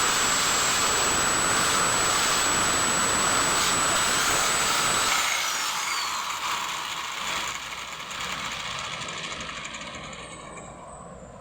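Small electric power tool running with a steady high whine, then switched off about five seconds in, its motor winding down with a falling whine and fading away.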